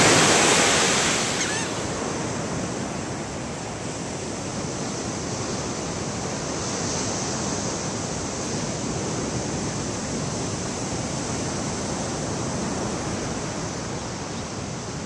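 Ocean surf washing onto the beach: a steady rush of waves, louder for the first couple of seconds and then even.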